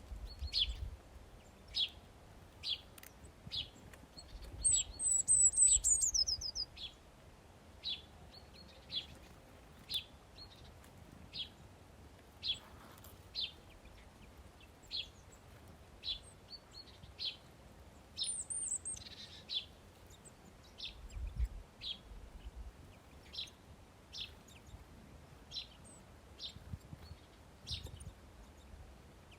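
Small songbirds chirping: a short, high chirp repeated about once a second, with two high falling trills, one about five seconds in and another near eighteen seconds. A few low rumbles come and go underneath.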